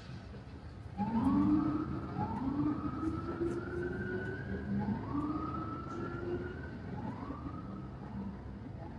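An emergency vehicle's siren starts about a second in, going in repeated rising sweeps that each climb and then hold. Under it runs the low, steady rumble of the car on the road.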